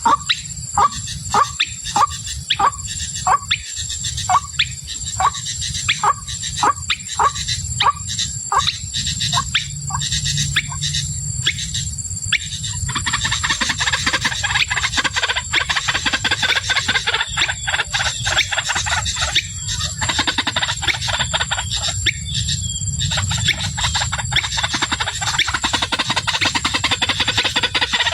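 White-breasted waterhen calling: a regular run of short, repeated notes, about two a second, then from about halfway in a denser, continuous chatter of calls.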